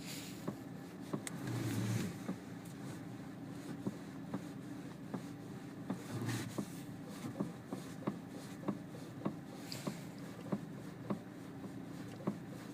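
Lada Granta steering knocking as the wheel is turned: sharp, evenly spaced knocks about one and a half a second over a steady engine hum. A fault that shows on a car only 5,700 km old. Two brief louder rushes of noise come about a second and a half in and again about six seconds in.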